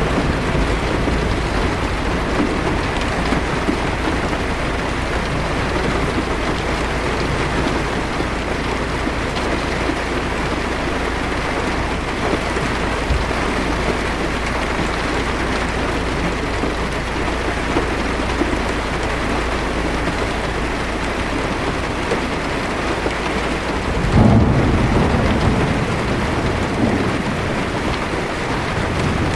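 Heavy rain falling steadily on a car's windshield, heard from inside the car over a low steady hum. About four-fifths of the way through, a rumble of thunder swells up and dies away over a few seconds.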